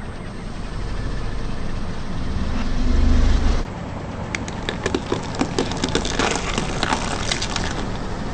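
A car's engine and tyres rumble low and build to a loud peak, then cut off suddenly. After that comes a run of sharp crackling and crunching as the tyre crushes something brittle.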